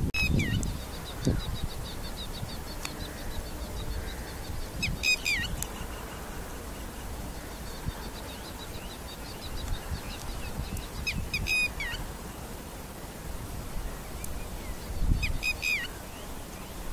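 Small birds calling: a sharp call with quick falling notes comes four times, about every four to six seconds, with runs of thin, fast, high chirping in between. A low wind rumble on the microphone sits under it.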